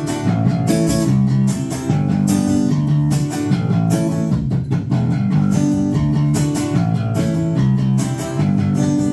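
Live band playing the instrumental intro of a rock song: guitars and bass guitar over a steady beat, just after a count-in.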